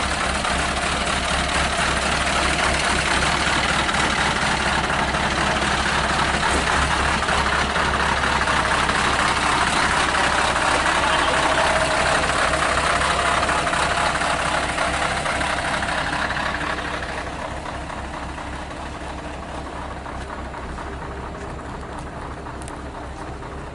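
Heavy diesel truck engine running steadily. It grows louder through the middle, then drops back to a lower, even running level about two-thirds of the way in.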